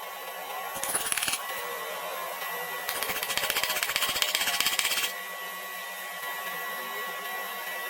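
Rapid, dense clicking in two bursts: a short one about a second in and a longer, louder one from about three to five seconds, over a faint steady whine.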